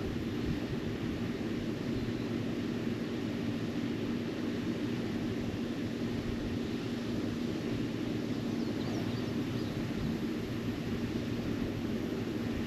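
Efurden 4000W portable gas inverter generator running steadily under load, powering the camper's air conditioner: a constant hum with one steady tone, loud enough to be described as definitely loud.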